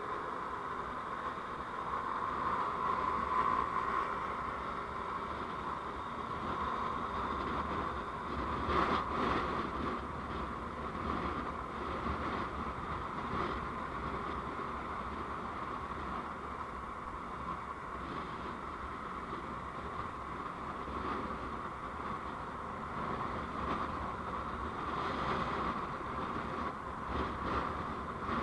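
Steady road and running noise of a moving vehicle, picked up by a dashcam microphone.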